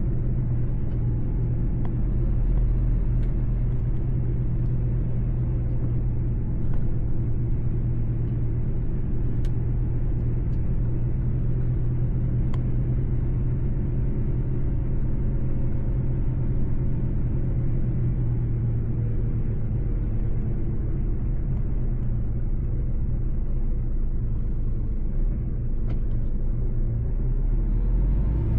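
Mercedes-Benz truck driving at a steady speed: a constant low rumble of diesel engine and road noise.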